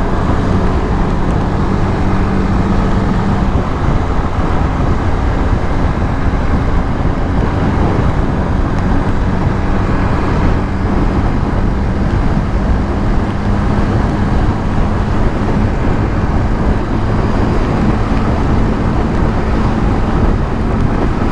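150cc motorcycle riding at a steady speed: a steady engine drone under road and wind noise.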